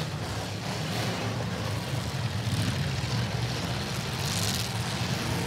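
Several full-size demolition derby cars' V8 engines running together, a steady low rumble.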